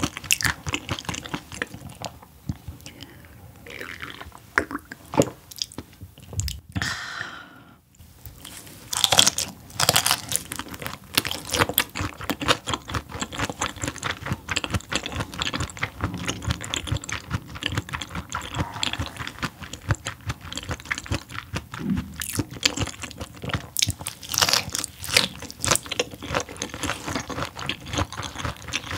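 Close-up chewing of raw whole gizzard shad: dense crunching as the small fish's bones are bitten through, with a brief pause about seven seconds in.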